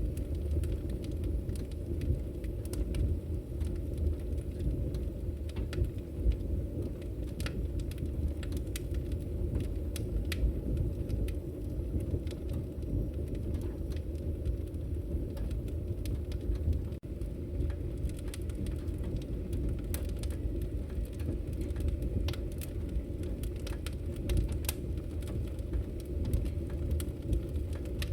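Wood fire burning: a steady low rumble of flames with frequent irregular sharp crackles and pops from the burning logs.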